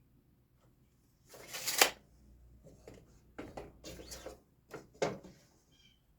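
Wood being handled on a workbench: one scrape of about half a second, then a string of shorter knocks and scrapes.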